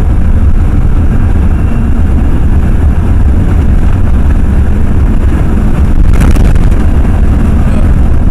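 Ford F-350 pickup driving, its engine and road noise heard from inside the cab as a steady, loud low rumble, with a brief rustle or knock about six seconds in.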